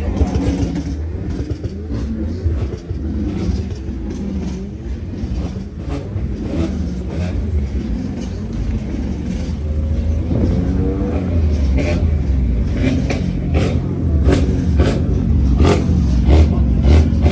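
Car engines running and revving with a steady low rumble. Over the last five seconds or so, a run of short sharp cracks comes roughly twice a second.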